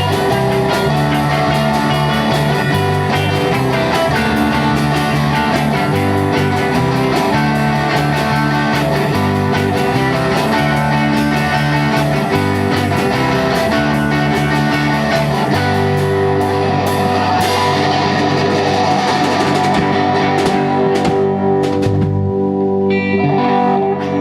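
Rock band playing without vocals, led by guitar over drums. In the last few seconds the cymbals drop away and a held chord rings on.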